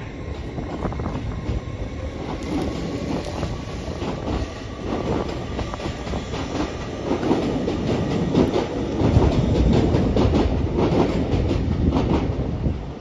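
An express passenger train passing through the station at speed: a rushing rumble with rapid wheel clatter over the rails. It builds to its loudest over the second half, then falls away sharply near the end as the last coaches go by.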